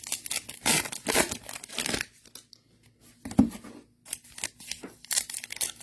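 Foil trading card pack wrappers crinkling and tearing as packs are ripped open, in short rustling strokes, with a quieter pause in the middle.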